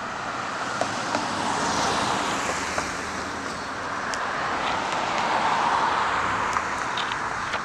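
Road traffic: vehicles passing on a nearby street, the tyre and engine noise swelling twice.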